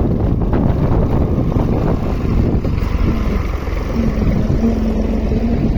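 Tractor engine running steadily, mixed with wind buffeting the microphone; a steady hum joins in about two seconds in.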